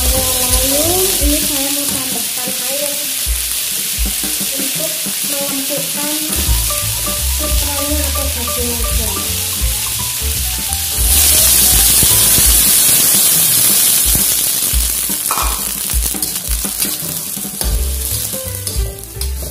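Vegetables stir-frying in an aluminium wok with a light sizzle, a metal spatula scraping and tossing them. About eleven seconds in, water is added to the hot pan and the sizzle jumps to a loud hiss for a few seconds before easing off.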